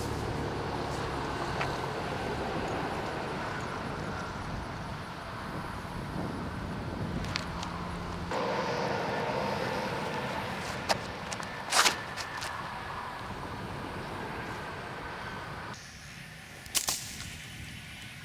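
Outdoor background noise with a few sharp knocks, the loudest about 12 and 17 seconds in; the background changes abruptly twice.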